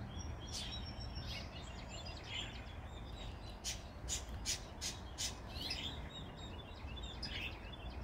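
Small songbirds chirping and twittering, with a quicker run of short sharp chirps about halfway through, over a low steady background rumble.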